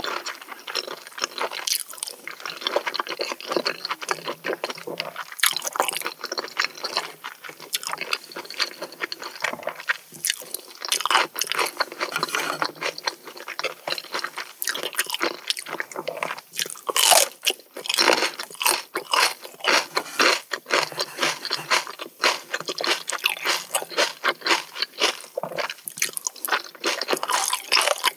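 Close-miked eating: continuous wet chewing and squishing of raw oysters mixed with crisp crunching bites of hijiki seaweed and a fresh red chili pepper, the loudest crunch a little past halfway.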